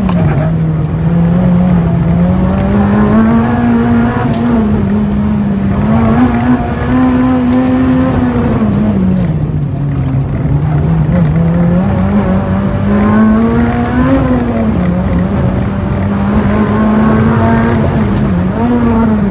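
Honda Integra DC5's 2.0-litre four-cylinder engine driven hard on a race circuit, heard from inside the cabin. The engine note climbs and falls repeatedly with the throttle through the corners, with a sharp drop in pitch about three-quarters of the way through and a quick dip and climb near the end.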